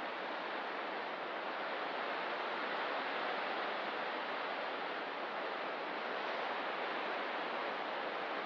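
Ocean surf along a rocky coast: a steady, continuous wash of waves with no single breaker standing out.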